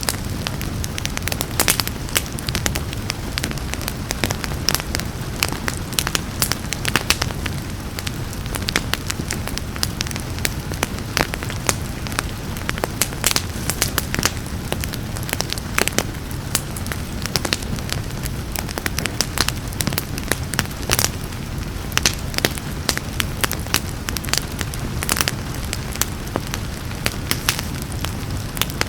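Wood fire crackling and popping in a fireplace, with frequent sharp irregular snaps over a steady low rumble; a soft rain hiss may lie beneath.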